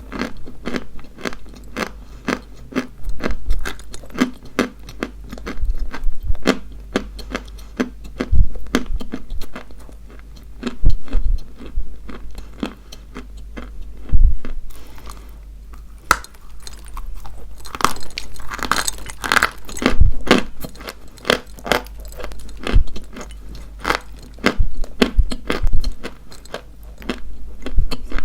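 Dry white chalk being bitten and chewed close to the microphone: a steady run of crisp crunches and crackles, with a few louder snaps and a short lull midway.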